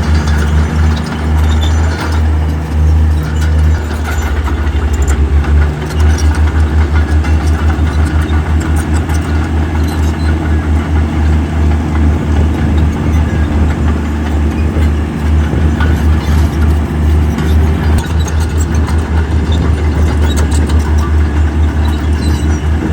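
Heavy diesel engine of earthmoving equipment running steadily with a fast, even low pulse, along with scattered light clanks of metal.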